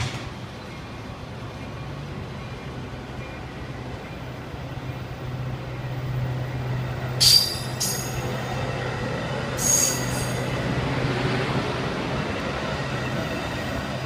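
Metra commuter train's bilevel gallery cars rolling out past the platform, the rolling noise growing as the train picks up speed over a steady low hum. Short, high-pitched wheel squeals cut in twice about seven seconds in and once more near ten seconds.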